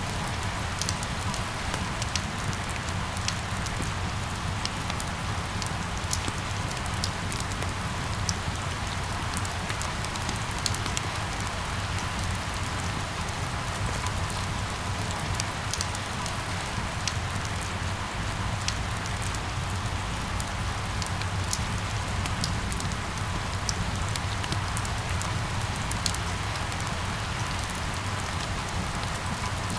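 Steady rain falling, with a constant hiss and many small drop ticks, over a low rumble.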